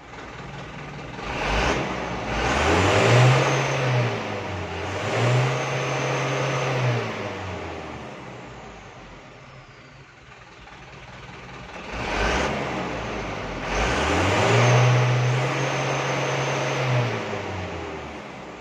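Mitsubishi Canter HD 125PS truck's diesel engine revved up and held at high rpm, then let fall back to idle, twice over, with a faint high whistle sliding down as the revs drop. It is a rev test of the engine just after its injection pump has been adjusted.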